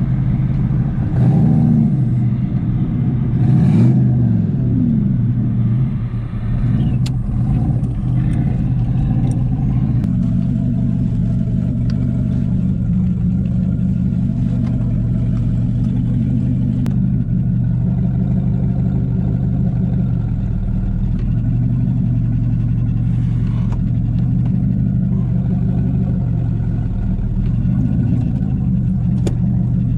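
Turbocharged LS V8 of a Chevy Silverado drag truck running at low speed with a steady rumble, blipped briefly twice in the first few seconds. The engine is being cooled down by letting air flow through it after a hard launch.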